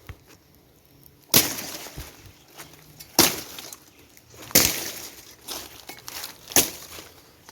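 Four sharp chopping strikes, about one and a half to two seconds apart, of a machete cutting through bush or fruit stalks.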